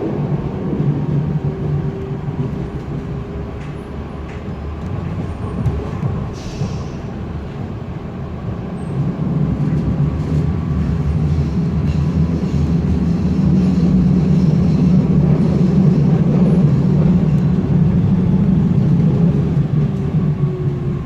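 Frankfurt U-Bahn line U8 train running between stations, heard from inside the car: a steady rumble of wheels on track with a faint motor whine, growing louder about halfway through.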